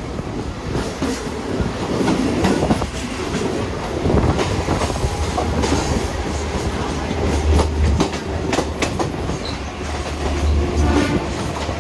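A Mumbai suburban local train, an electric multiple unit, running on the track: a steady low rumble with irregular clacks and knocks from the wheels over rail joints.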